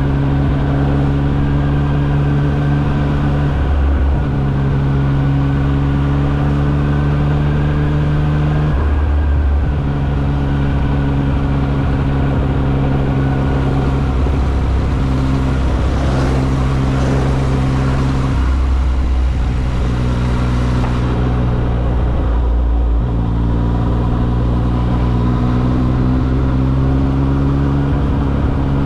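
Yamaha XSR900's inline-three engine running under way at steady revs. Its note breaks off briefly about every four to five seconds, as with gear changes or easing off the throttle.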